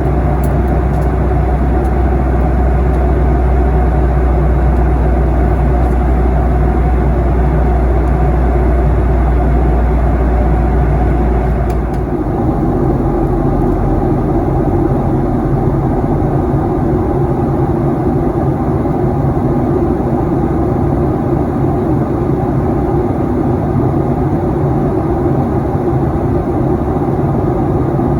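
Steady cabin noise of a Boeing 737-800, its CFM56-7B jet engines and airflow making a loud, even drone. About twelve seconds in, the deep low rumble suddenly drops away and a higher, even roar continues.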